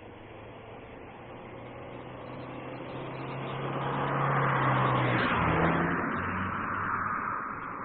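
A car driving past: its engine and tyre noise grow louder to a peak about five seconds in, the engine note drops in pitch as it goes by, and then the sound fades away.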